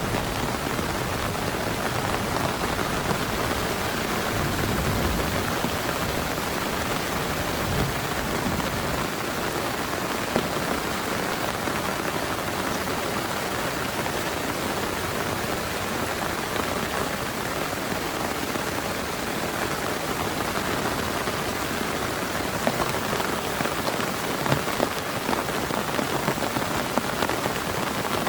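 Heavy rain falling steadily, with a few sharper single drop hits near the end.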